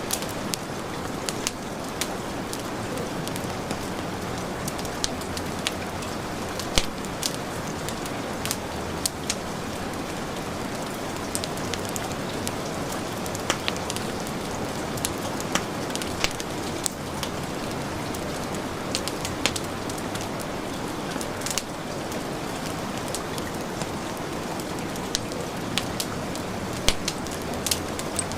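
Heavy rain falling in a steady hiss, mixed with a wood fire crackling and popping in irregular sharp snaps.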